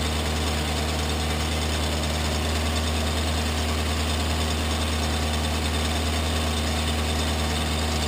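1952 Packard's straight-eight engine idling steadily.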